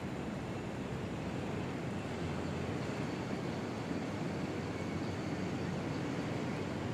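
Steady low rumble of vehicle traffic with no sudden sounds, and a faint thin high tone running through it.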